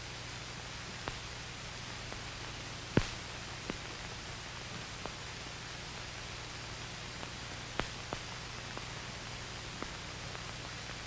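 Steady hiss and low hum of an old film soundtrack, with scattered sharp clicks and pops, the loudest about three seconds in.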